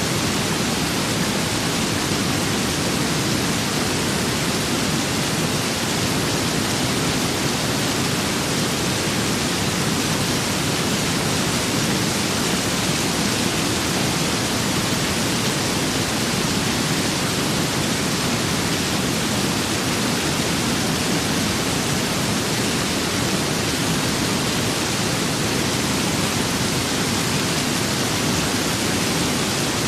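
Steady rain with wind: an even, unchanging hiss.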